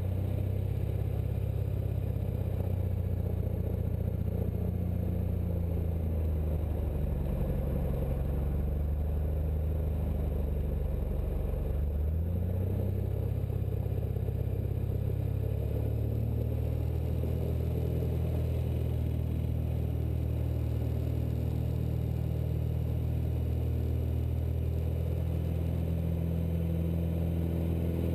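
Cessna 172's piston engine and propeller running at full power for takeoff and climb-out, a steady drone whose pitch shifts slightly in the first half, then holds even.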